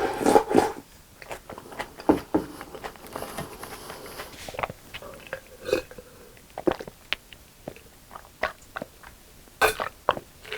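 Close-miked eating sounds: chewing, with scattered wet mouth clicks and smacks. A louder cluster comes right at the start and another near the end.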